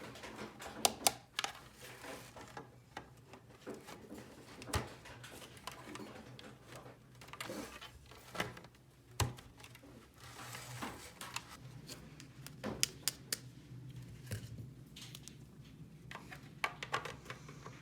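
Irregular clicks and taps of small plastic toy pieces being handled and set down, some in quick runs of several clicks, over a faint steady low hum.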